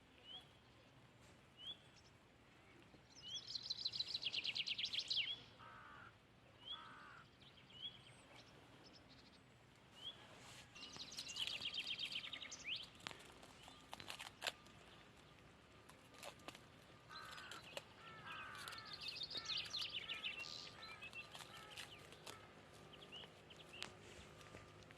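Songbirds singing: a rapid trilled phrase comes back about every eight seconds, with short single chirps between. A few faint sharp clicks come about halfway through.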